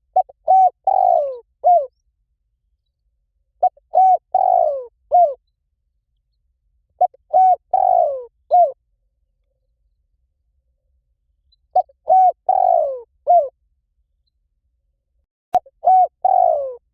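Spotted dove cooing: a phrase of a few short coos and one longer drawn-out note, repeated five times about every four seconds. A single sharp click comes just before the last phrase.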